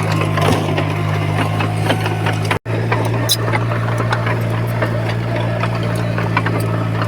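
Heavy diesel engine of earthmoving machinery running steadily, with scattered clicks and rattles over it. The sound cuts out for an instant about two and a half seconds in.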